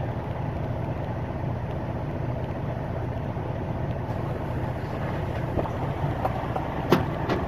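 Semi truck's engine and road noise heard inside the cab while driving, a steady low rumble, with a few sharp clicks near the end.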